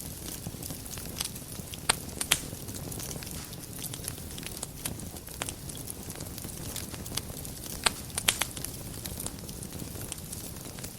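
Wood fire crackling in a fireplace: scattered sharp pops and snaps over a low, steady rumble of the flames, with the loudest pops about two seconds in and a quick cluster of them about eight seconds in.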